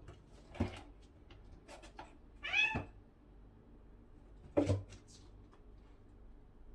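A domestic cat meows once, a short call that rises and then falls in pitch, about two and a half seconds in. Two short sharp knocks sound, one before the meow and one after it.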